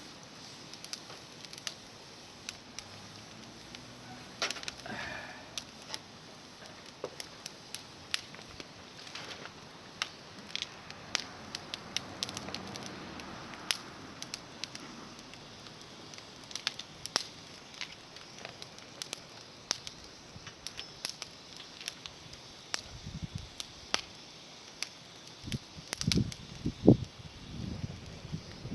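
Small bonfire of climbing-rose twigs burning, with sharp, irregular crackles and pops. A few low thumps come near the end.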